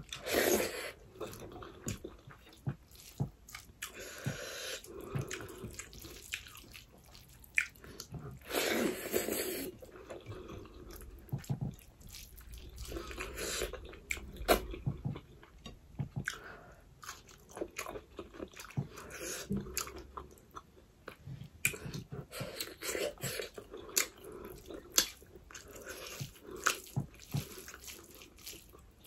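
Close-miked eating of rice and curry by hand: chewing and wet mouth clicks and smacks, with a few longer noisy bursts.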